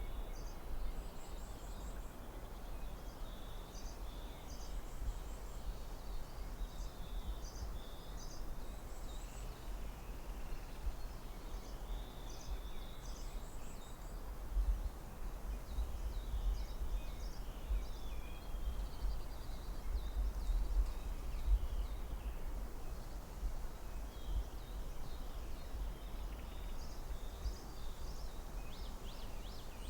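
Forest ambience: small birds chirping and twittering in short high notes through much of the time, over a steady low rumble and hiss.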